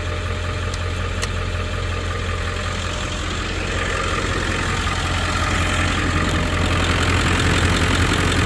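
Truck engine idling steadily while its alternator is loaded by the lights being switched on. The alternator's output sags to about 12 volts under this load, which the owner takes for a bad alternator. The running noise grows a little louder from about halfway.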